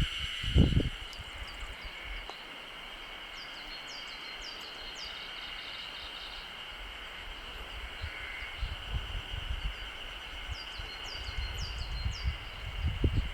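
Outdoor ambience: insects droning steadily at a high pitch, with a bird giving two rapid runs of short falling notes, one early and one near the end. Low rumbles come and go underneath.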